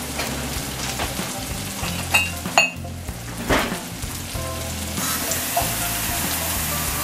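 Ground beef and onions sizzling as they brown in a wok, with a few sharp clicks near the middle; the sizzle grows louder about five seconds in.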